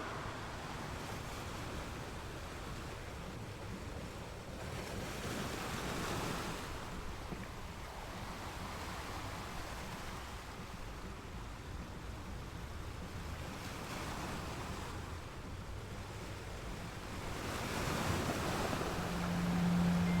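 Ocean surf washing onto a beach, a steady wash of waves that swells every several seconds. A low steady hum comes in near the end.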